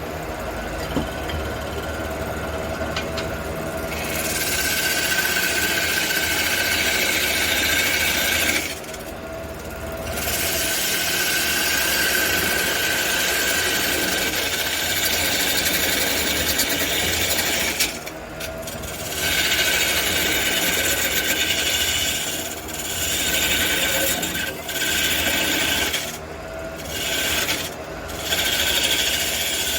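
A wood lathe runs with a steady hum while a turning tool cuts the spinning red cedar blank in long passes, giving a rasping shaving noise. The noise starts about four seconds in, stops briefly twice, then breaks into shorter cuts near the end.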